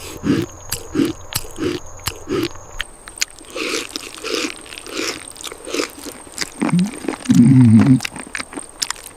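Chewing and crunching in a steady rhythm, about one and a half bites a second, with a loud grunt late on.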